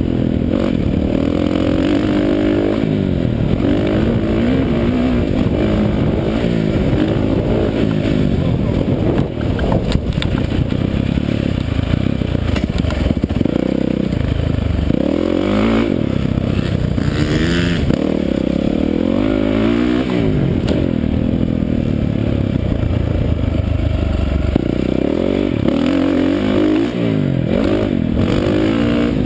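Motocross bike engine being ridden hard, its pitch rising and dropping again and again as the throttle is opened and shut and it runs up through the gears.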